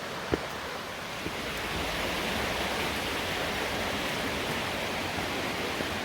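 Steady rush of a waterfall, swelling slightly about two seconds in, with a couple of faint clicks in the first second and a half.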